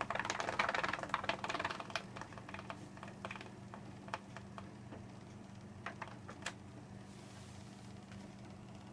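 Braided rubber motor of a rubber-powered model Spitfire unwinding from 1200 turns on a motor test, turning the propeller: a dense rattle of rapid clicks for about the first two seconds, thinning to scattered clicks.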